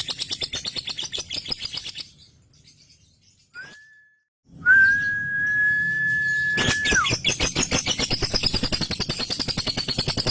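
Male lovebird's ngekek: a fast, continuous chattering trill of rapidly repeated chirps, which breaks off about two seconds in. After a short pause a pure, steady high whistle holds for a couple of seconds and slides down at its end, then the rapid chatter starts again.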